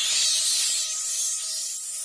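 A loud hiss of noise, strongest in the high range, with a faint steady tone beneath it; it eases off a little near the end.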